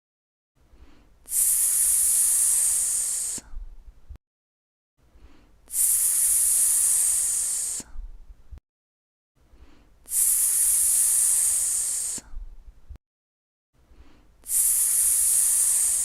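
A sizzling, S-like hiss held for about two seconds, four times over, with short silent pauses between. It is the long 'sss' that the lesson models as the sound of an egg sizzling on a hot pan.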